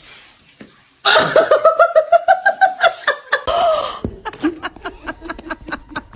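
A person laughing in a rapid run of high-pitched bursts starting about a second in, then trailing off into lower, quieter chuckles.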